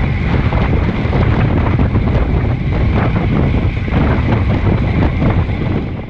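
Loud wind buffeting on the microphone, a steady rumbling noise heavy in the low end, fading out at the very end.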